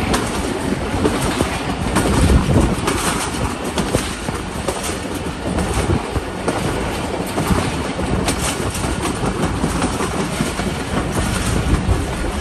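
Passenger train running along the track: a steady rumble of wheels on rails, with clicks as the wheels pass over rail joints.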